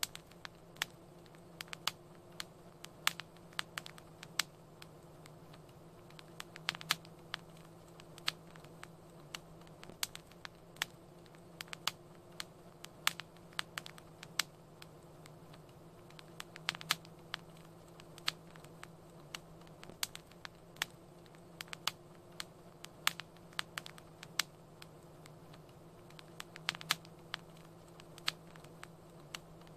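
Wood fire crackling: irregular sharp pops and snaps, several a second and sometimes in quick clusters, over a low steady hum.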